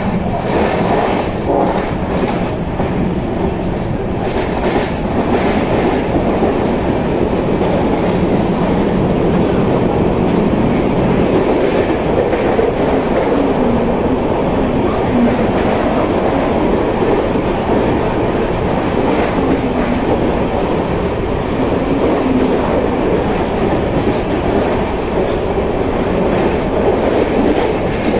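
An express train's LHB passenger coach running at speed, heard from its open doorway. The wheels make a steady rumble on the track, with clickety-clack over rail joints and points in the first few seconds and again near the end.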